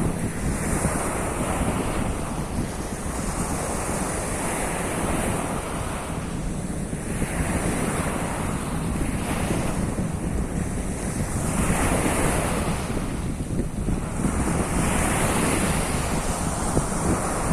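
Waves of the Sea of Azov breaking and washing up the shore, swelling and ebbing every few seconds, with wind buffeting the microphone.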